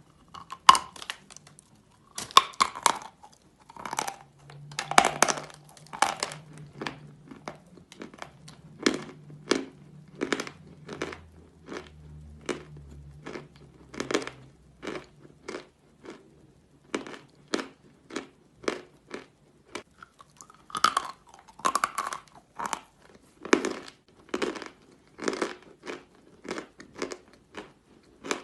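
Edible natural chalk ('General Vatutin' chalk) being bitten and chewed close to the microphone: a run of crisp, dry crunches, about one to two a second, with louder bites near the start and again about two-thirds of the way through.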